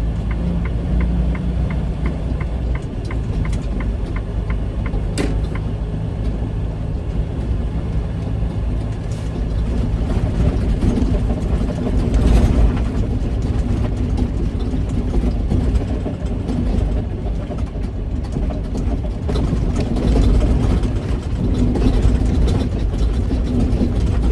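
Diesel engine of a semi-truck running, heard from inside the cab, with a steady low rumble that grows louder around ten to thirteen seconds in as the truck moves along. A fast, even ticking sounds over it for the first few seconds.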